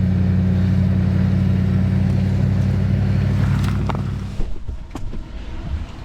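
Truck engine running steadily with road noise while driving; the hum cuts off abruptly about four and a half seconds in, leaving a few light clicks and knocks.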